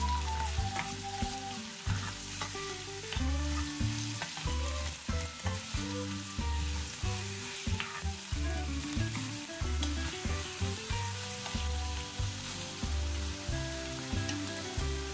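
Chicken pieces and onion sizzling as they sauté in a stainless steel pot, stirred with a spoon that clicks and scrapes against the pan. Background music with a steady bass beat plays over it.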